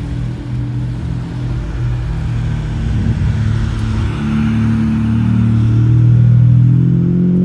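Ferrari 550 Maranello V12 pulling away at low revs and passing close by, growing louder, with the engine note rising near the end as it accelerates away.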